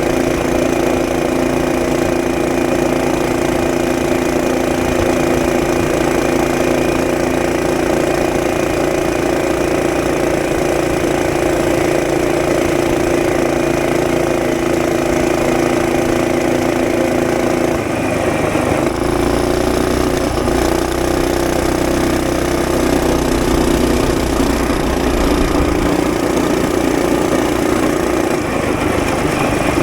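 Mini bike's small engine running steadily with its governor removed. About two-thirds of the way through, the engine note shifts and wavers, then holds steady again.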